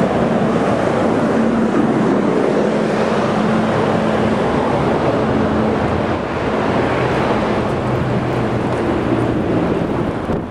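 Blizzard wind gusting across the microphone in a loud, continuous rush, with the low steady hum of a vehicle engine under it.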